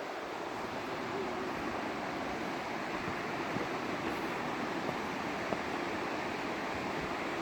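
Steady rushing of flowing water, a stream or river running nearby, growing slightly louder, with a few faint ticks over it.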